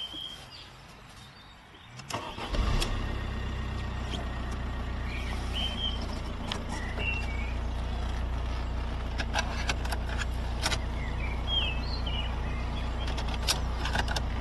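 A car engine starts about two seconds in and then idles steadily with a low hum. Short high chirps and a few clicks are heard over it.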